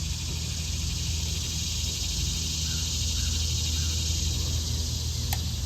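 Steady high drone of insects, with a low steady hum beneath it and a single sharp click near the end.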